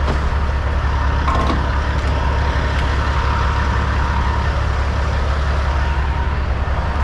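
Semi truck's diesel engine idling: a steady low rumble, with a brief click about a second and a half in.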